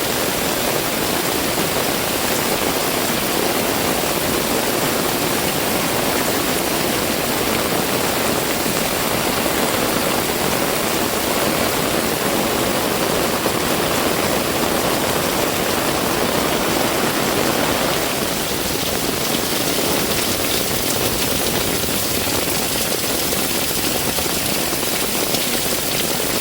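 Heavy rain pouring steadily, a dense unbroken hiss of rainfall; about two-thirds of the way through its texture changes, with less of the middle range.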